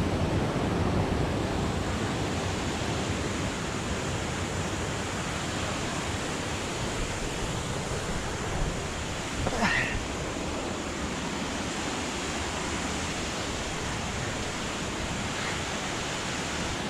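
Steady rushing of a waterfall, an even wash of water noise. About ten seconds in, a brief high-pitched sound briefly rises above it.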